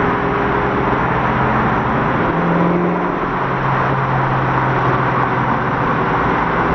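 Car engine hum and road noise heard from inside a car moving slowly in traffic. It is a steady drone whose low engine tone shifts pitch a little over two seconds in.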